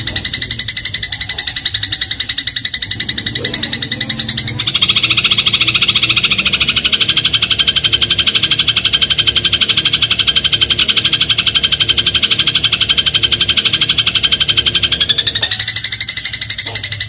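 Eurasian tree sparrow (burung gereja) singing a fast, even trill of rapid repeated notes. The pattern shifts to a fuller, higher trill about four and a half seconds in and shifts back near the end.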